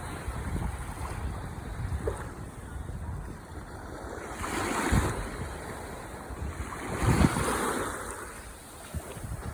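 Ocean waves washing onto the shore, with two louder surges about halfway through and about seven seconds in, over a low rumble of wind on the microphone.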